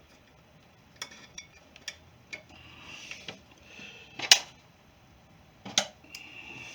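Scattered metal clicks and clinks of small parts and hand tools being handled while reassembling a string trimmer's muffler and spark arrestor screen, the loudest clack about four seconds in, with soft rustling between.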